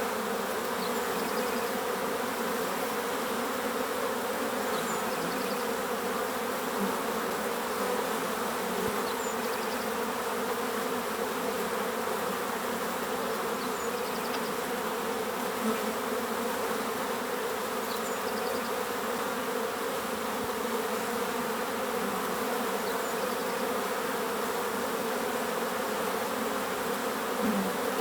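Many bees buzzing in a steady, continuous hum, with a bird chirping faintly and briefly every few seconds.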